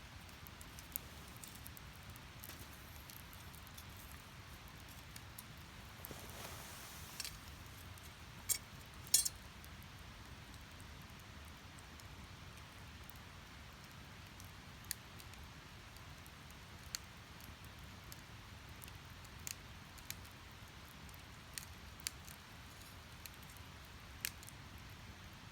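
Wood fire burning in a Snow Peak fire stand: a low steady rush of flame with scattered sharp crackles and pops from the logs, the loudest two about eight and nine seconds in, and a brief hiss around six seconds in.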